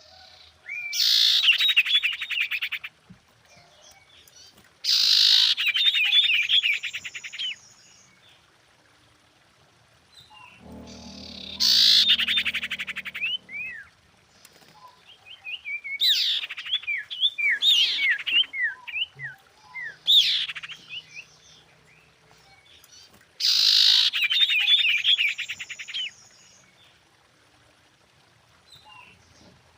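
Female common iora calling in about six separate bouts with short pauses between, each a fast buzzy rattle followed by a run of quick high down-slurred notes: the female's call to males.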